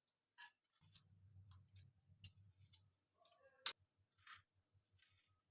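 Near silence: faint room tone with scattered small clicks and taps, one sharper click about two-thirds of the way through.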